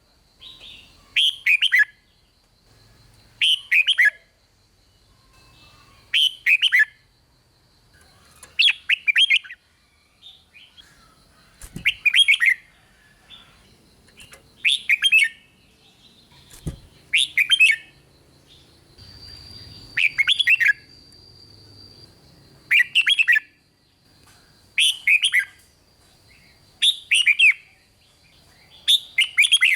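Red-whiskered bulbul singing short, lively song phrases, repeated about every two seconds, with a faint steady high tone behind them.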